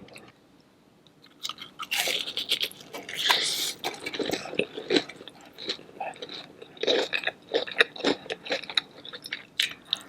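Close-miked crunching and chewing of a king crab seafood boil with Hot Cheetos, in dense crackly bites that start about a second and a half in, after a brief near-silent gap.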